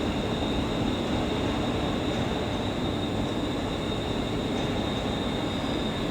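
Electric train running at a station platform: a steady rumble with a thin, constant high whine.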